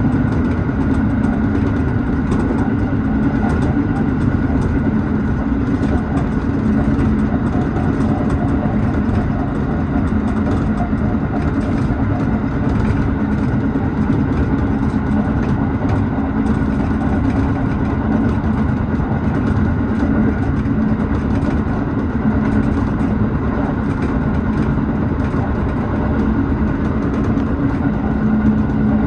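Tobu 6050 series electric train running, heard from inside the front car: a steady rumble of wheels and running gear on the rail with a steady hum, and many faint ticks and rattles.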